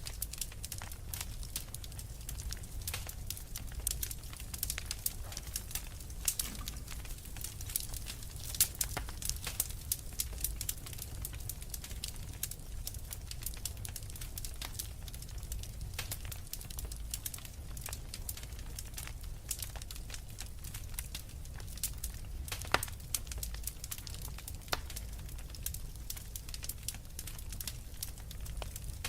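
Logs burning in a wood fireplace: irregular sharp crackles and pops over a low steady rumble, with a few louder pops about 9 and 23 seconds in.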